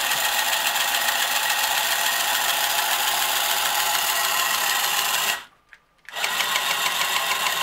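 Marx Moon Scout tin toy helicopter's battery-powered electric motor and gears running with a steady mechanical whir and grind. It stops suddenly about five and a half seconds in and starts up again half a second later. The owner suspects the worn gears are not meshing as well as they should.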